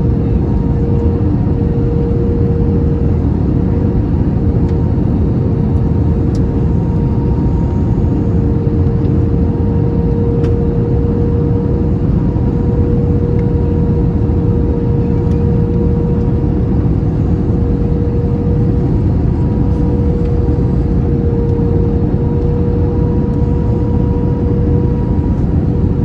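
Airbus A321 cabin noise on final approach, heard from inside the cabin: the steady noise of engines and airflow, with a constant mid-pitched hum on top that does not change.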